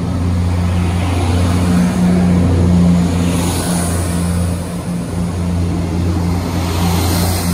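ScotRail passenger multiple unit moving past along the platform, a steady low drone with wheel and running noise and two brief swells of hiss as carriages pass.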